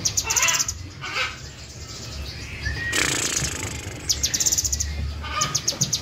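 Small caged bird chirping in short, fast-ticking bursts, with a burst of wing flapping about halfway through as it flies about the cage.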